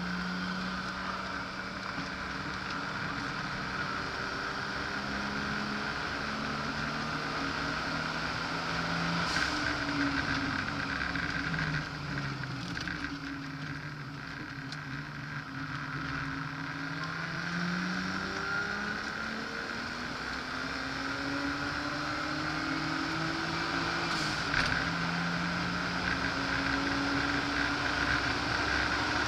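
Car engine heard from inside the cabin while lapping a race circuit. The pitch climbs under acceleration and drops away several times into corners, over a steady hiss of road and wind noise.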